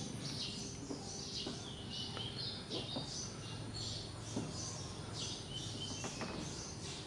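Many birds chirping together in a dense, continuous chorus of short high calls, several with falling tails. A few faint taps now and then.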